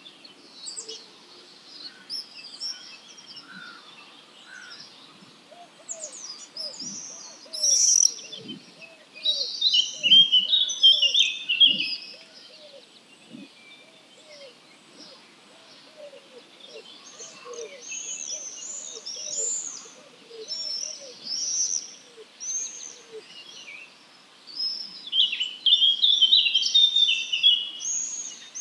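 Dawn chorus of several songbirds with high chirping and warbling song, loudest in bursts about a third of the way in and again near the end. Under it, a lower short call repeats about twice a second through the middle stretch.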